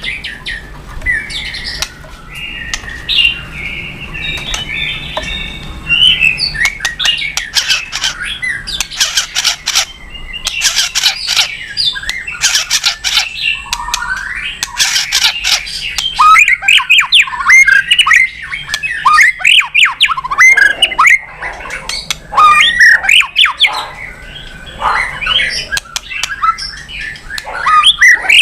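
White-rumped shama (murai batu) singing a long, varied song. It mixes sliding whistles with harsh rasping notes, thick in the middle stretch, then quick whistled phrases and chatter.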